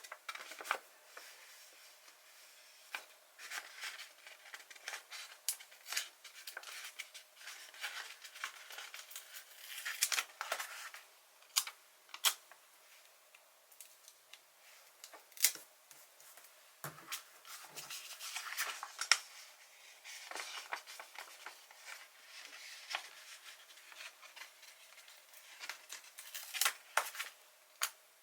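Paper stickers being peeled from a sheet and pressed onto a sticker page: irregular small clicks, taps and short crinkly rustles.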